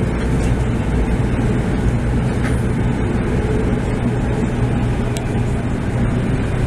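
Interior running noise of a Taiwan High Speed Rail 700T train, heard inside the passenger car: a steady low noise of wheels and traction gear as the train pulls alongside the underground platform.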